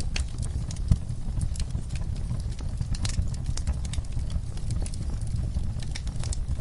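Wood fire crackling in a fireplace: a steady low roar under irregular sharp pops and snaps, one louder pop about a second in.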